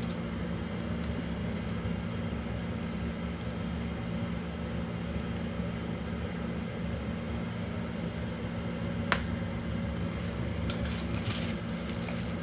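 Oak firewood burning in a wood stove, with one sharp pop about nine seconds in and a few faint crackles near the end, over a steady low hum.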